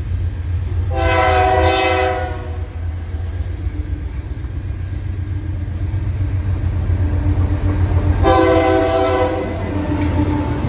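Diesel locomotive air horn sounding two blasts, each about a second long and several notes at once, some seven seconds apart, over the steady low rumble of the passing train.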